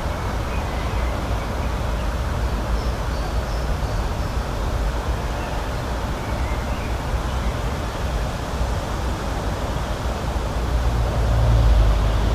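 Steady outdoor rushing noise, heaviest in the low end, swelling slightly near the end, with a few faint high chirps.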